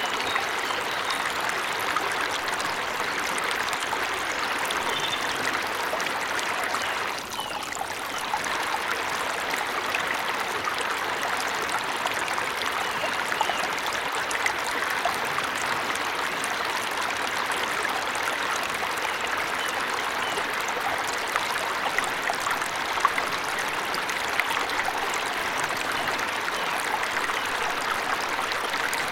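Waterfall's running water: a steady, even splashing that dips briefly about seven seconds in.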